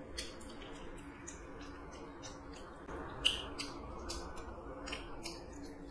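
Close-up chewing and wet mouth smacks of someone eating chicken liver curry and rice by hand: a run of short clicks and smacks, with a sharper one about three seconds in.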